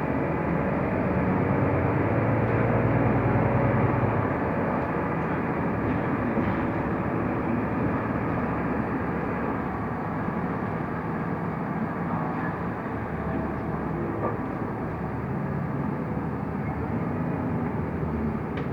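Interior noise of a Mercedes-Benz Türk O345 Conecto LF city bus under way: a steady engine drone with tyre and road rumble. The engine note is strongest for the first four seconds or so, then eases off.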